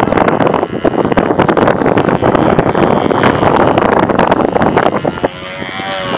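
Strong wind buffeting the microphone, with the engine of a control-line model airplane in flight buzzing underneath. The gusts ease about five seconds in, leaving the engine's thin tone more exposed.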